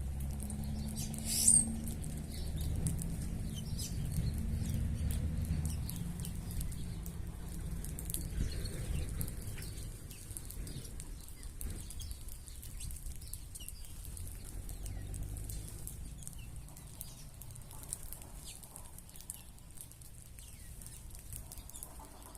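Birds flapping their wings, with short high chirps throughout and one sharp rising sound about a second and a half in. A low rumble sits under the first six seconds.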